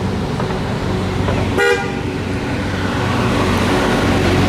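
A single short car horn toot about one and a half seconds in, over the steady low rumble of car engines in traffic.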